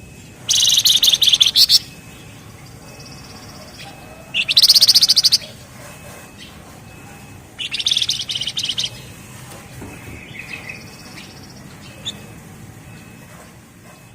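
Javan fulvetta (flamboyan, wergan jawa) singing three loud, very fast rattling trills of about a second each, the dense 'ngebren' song, with softer short high notes in between.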